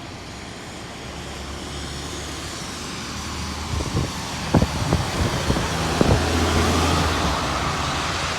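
Road traffic, with a motor vehicle passing: its engine tone and tyre noise grow louder to a peak about two-thirds of the way in, then ease off slightly. A few sharp clicks come about halfway through.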